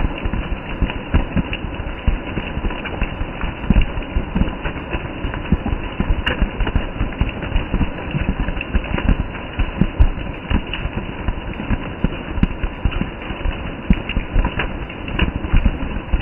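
Heavy rain falling steadily on broad leaves and trees, a dense, even patter of countless drops.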